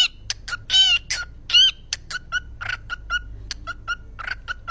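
A parrot making hen-like clucking calls: a few loud, drawn-out clucks in the first couple of seconds, then quicker, softer ones, about three a second.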